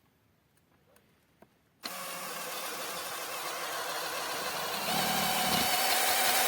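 Cordless drill-driver motor starting up after a few faint clicks, running steadily with a whine, then growing louder about five seconds in.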